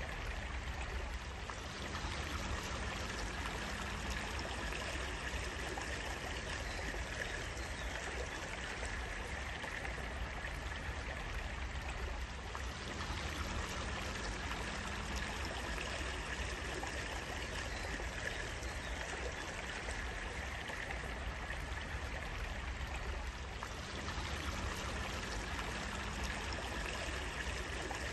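Water of a small stream flowing and trickling steadily.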